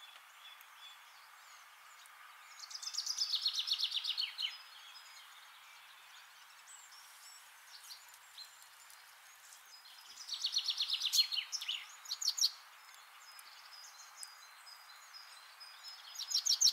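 A bird singing outdoors. Bursts of rapid repeated chirps, each about two seconds long, come about three seconds in, again about ten seconds in, and once more at the very end, over a faint steady hiss.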